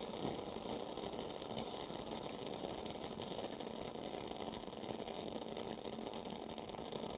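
Wooden-wick candle burning with a steady, fine crackle like a small fireplace.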